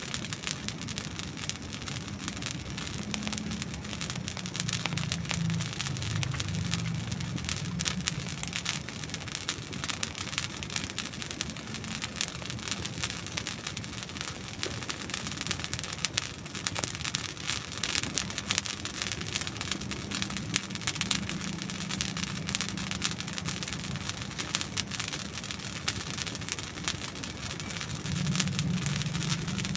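Wood campfire burning: a dense, continuous run of small crackles and pops from dry logs over a low rumble.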